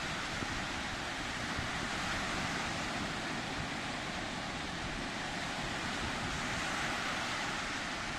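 Sea surf washing steadily, with some wind noise on the microphone.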